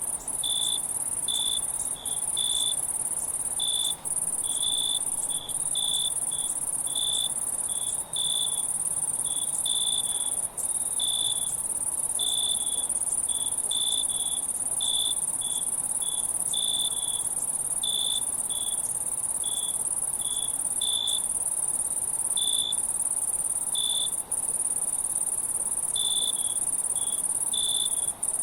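Insect chorus of crickets: a steady, very high shrill hum, with short chirps repeating irregularly a few times a second.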